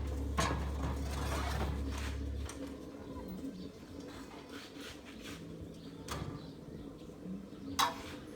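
Metal clinks and knocks from repair work with hand tools, a few sharp clicks with the loudest near the end, over a low hum that stops about two and a half seconds in.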